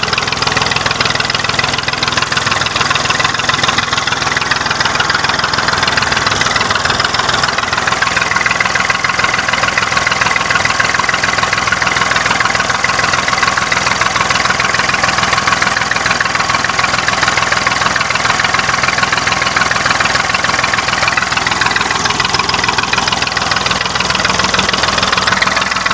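Tractor engine running steadily with an even, rapid firing beat.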